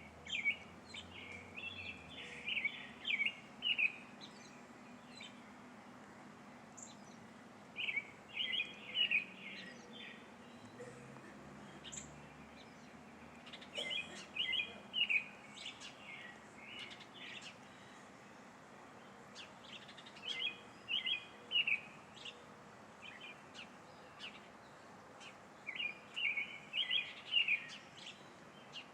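A songbird singing in short phrases of warbled whistled notes, each about two seconds long, about five times, with brief chirps in between.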